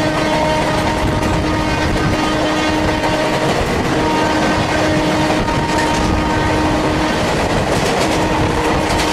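Two Indian Railways passenger trains running side by side: a loud, steady rumble and clatter of coach wheels on the rails, with a sustained tone that comes and goes every few seconds.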